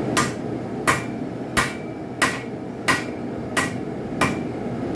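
Hand hammer striking a hot railroad spike on an anvil, forging the knife blade: seven even blows, about one every two-thirds of a second, some with a brief metallic ring, over a steady low rumble.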